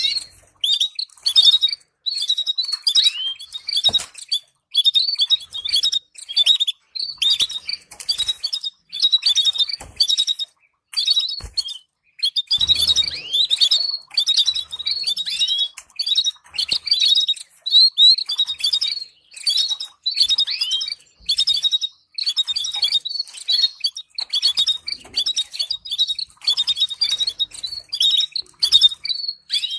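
Domestic canary singing in quick phrases of high chirps and rapid trills, broken by short pauses throughout.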